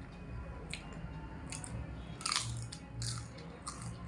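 A person biting and chewing crunchy food close to the microphone: about five short, crisp crunches, the loudest about halfway through.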